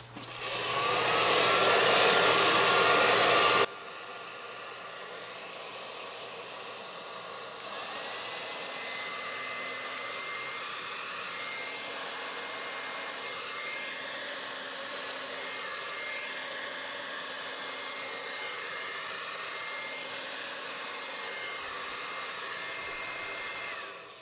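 Hair dryer blowing on its cool setting, a steady rush of air with a motor whine. It spins up at the start, drops suddenly to a lower level about four seconds in, picks up again around eight seconds with a higher whine, and winds down near the end.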